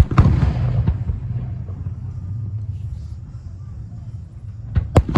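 Fireworks shells bursting: a sharp bang right at the start that trails off into a rumbling echo, then two more sharp bangs close together near the end.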